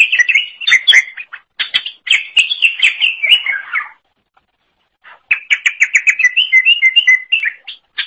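Green leafbird (cucak ijo) singing a fast, varied chattering song of rapid chirps and short whistled notes. The song breaks off about four seconds in, goes completely silent for about a second, then resumes with a quick run of repeated notes.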